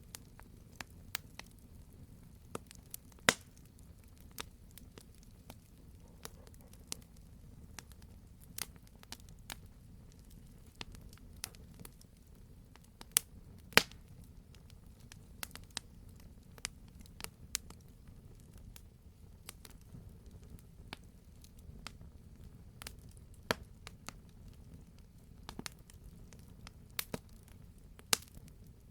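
Wood fire crackling in a fireplace: irregular sharp pops and snaps of burning wood, a few much louder than the rest, over a low steady rumble of the flames.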